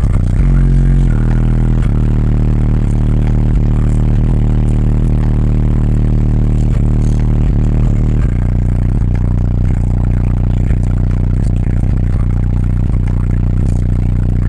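Loud car audio system playing deep, held bass notes through its subwoofers, the pitch shifting about a second in and again about eight seconds in.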